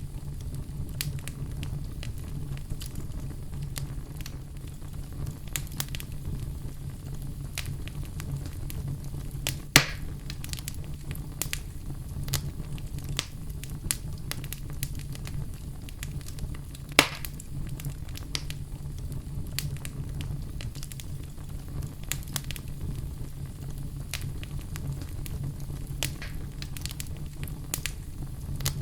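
Wood fire in a fireplace crackling steadily, with many small snaps over a low, even rumble. Two louder pops stand out, about ten seconds in and again about seventeen seconds in.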